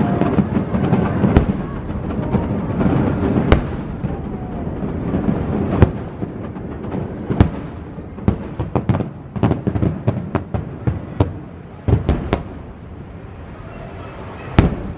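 Fireworks display: aerial shells bursting one after another with sharp bangs and rumbling echoes, dense at first, then thinning to scattered bangs and clusters of quick crackling reports.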